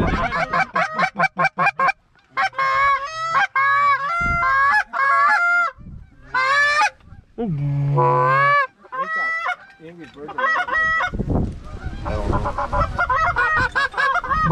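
Goose honks and clucks in rapid runs of short notes, with a lower drawn-out note rising into a honk about eight seconds in.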